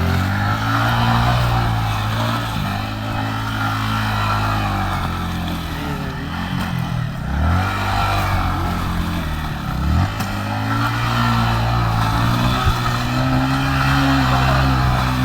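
Motorcycle engine running at steady, held revs, dropping sharply and picking back up twice, about halfway through and again a few seconds later.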